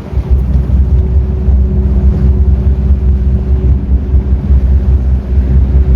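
SeaRay 260 Sundeck's 300 hp Mercury engine running steadily with the boat underway, a deep rumble with a faint steady hum above it, mixed with wind buffeting the microphone.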